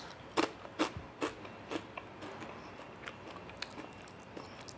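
Crunching as a crisp fried Chinese yam chip is bitten and chewed: several sharp crunches about half a second apart in the first two seconds, then softer crackles.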